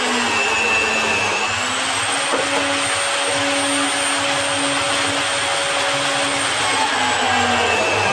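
An electric power tool running steadily with a motor whine, its pitch dipping slightly about a second in and again near the end as it takes load.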